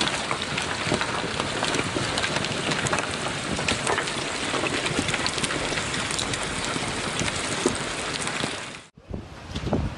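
Heavy rain pelting down onto hard surfaces: a dense, steady wash of noise full of small sharp hits. It cuts off suddenly about nine seconds in, and fainter gusts of wind and rustling follow.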